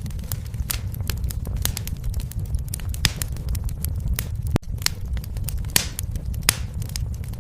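Fire in a fireplace crackling: irregular sharp pops and snaps over a steady low rumble of the flames. The sound dips out for a split second about four and a half seconds in.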